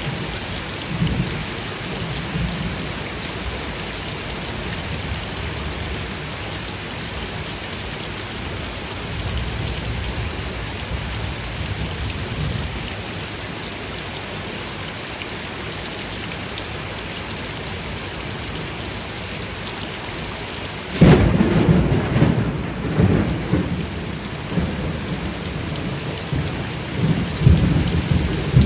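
Steady rain falling, with low thunder rumbling faintly now and then. Near the end, a sudden loud peal of thunder breaks in and rumbles on for several seconds.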